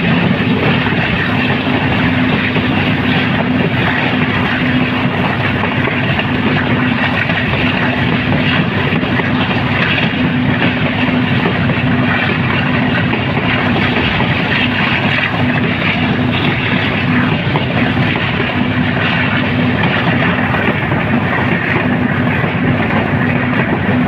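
Steady running noise of a moving express train heard from on board: a constant rush of wheel-on-rail and wind noise with a steady low hum underneath.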